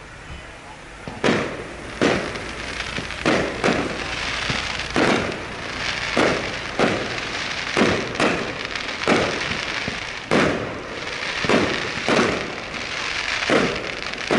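Fireworks display: a rapid series of aerial shell bursts, about one bang a second starting about a second in, with continuous crackling noise between the bangs.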